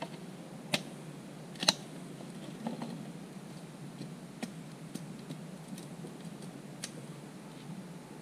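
A few scattered sharp clicks and knocks, the two loudest in the first two seconds, over a steady low background hiss.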